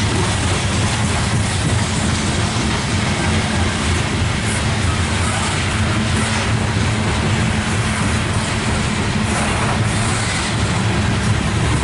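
Loaded CSX coal train rolling past: a steady rumble and clatter of the freight cars' wheels on the rails.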